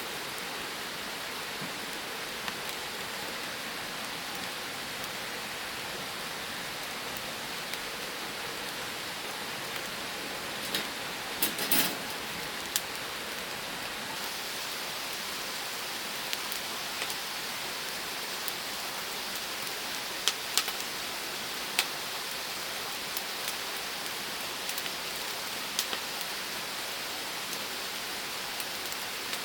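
Firewood fire burning with a steady hiss and irregular sharp crackles and pops, a quick cluster of them near the middle.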